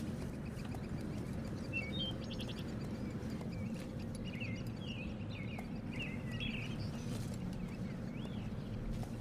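Small birds chirping in short, scattered calls over a steady low background noise of outdoor ambience.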